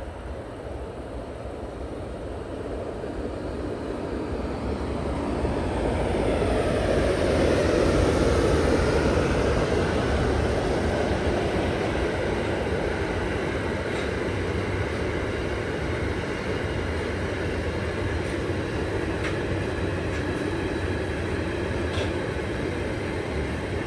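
A train approaching and running past, growing louder over the first several seconds and then holding a steady running noise, with a few sharp clicks of wheels over the track in the second half.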